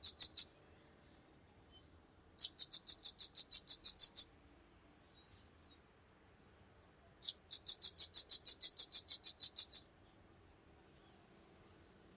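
Recorded songbird call: rapid runs of sharp, high chip notes, about seven a second, in two bursts of about two seconds each with a few seconds of silence between, after the tail of an earlier burst at the very start.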